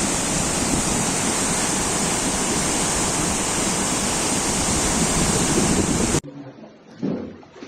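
Loud, steady rushing of fast-flowing floodwater, cutting off suddenly about six seconds in, followed by a much quieter stretch.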